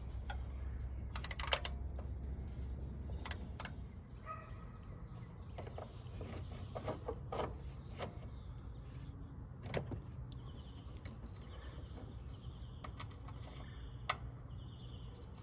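Scattered clicks and light knocks of tools and parts being handled, over a low hum that fades about four seconds in.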